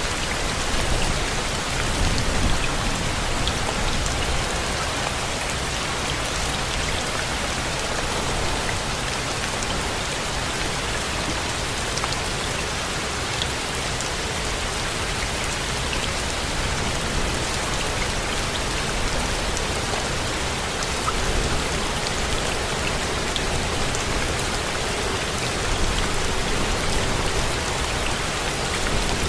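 Steady rain falling, with occasional single drops ticking out clearly above the even hiss.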